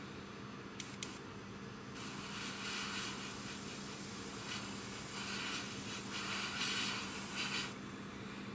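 Airbrush spraying paint: a steady hiss that starts about two seconds in, pulses slightly with the trigger and cuts off near the end. Two light clicks come about a second in, before the spraying.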